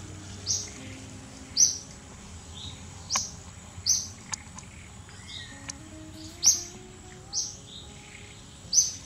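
A bird chirping repeatedly, about seven short high chirps spaced a second or so apart, over soft background music.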